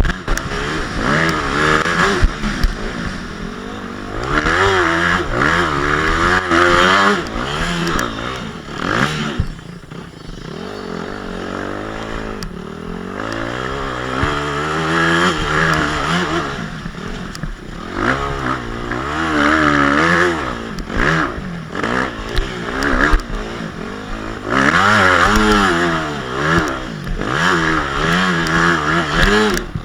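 Motocross dirt bike engine revving up and falling back again and again as the bike is ridden, with the throttle easing off briefly a few times, and scattered knocks and clatter.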